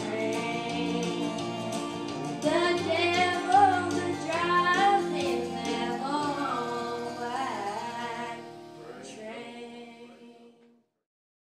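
A woman singing a country gospel song over an instrumental backing track with steady bass notes. The last phrase fades away and the sound ends abruptly about ten and a half seconds in.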